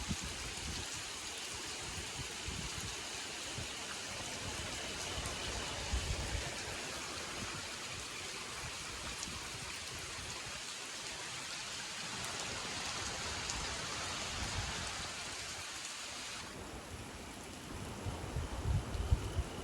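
Steady rain falling, an even hiss. Near the end the hiss thins, a faint steady high insect-like tone comes through, and there are a few low bumps.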